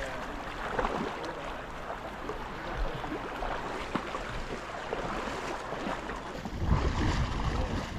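Steady rush of flowing river water, with wind buffeting the microphone from about three-quarters of the way in.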